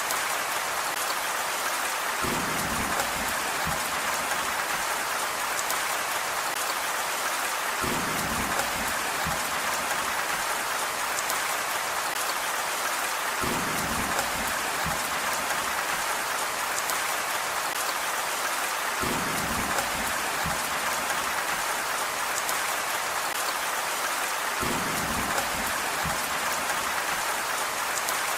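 Steady rain falling on a surface, an even hiss without pause. A short low rumble comes back about every five and a half seconds, five times in all.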